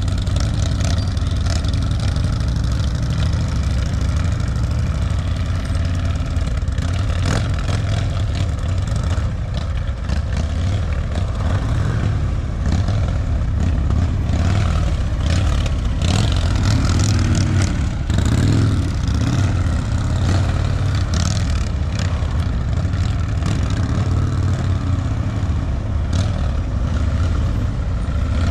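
Motorcycle engines running at low speed, a steady loud rumble with the revs rising and falling now and then, most clearly in the middle.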